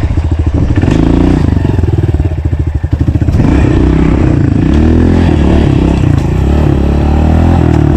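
Honda CRF125 pit bike's single-cylinder four-stroke engine being ridden, its pitch rising and falling with the throttle and gear changes. A little under three seconds in it briefly goes choppy and drops off, then pulls again.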